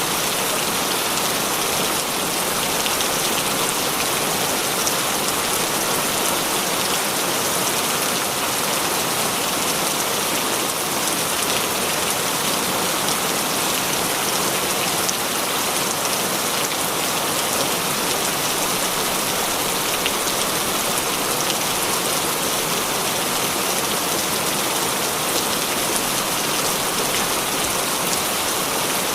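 Steady heavy rain falling on surfaces, a dense even hiss of many drops with faint individual drop ticks.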